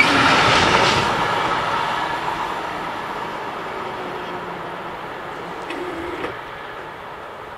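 Freight train running away from the level crossing, its wheel and wagon noise fading steadily. A short clunk comes about six seconds in.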